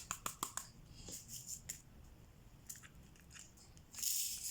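Small sharp clicks and taps of a diamond painting pen picking up resin drills and pressing them onto the sticky canvas, coming quickly in the first two seconds and more sparsely after. A short rustling hiss about four seconds in.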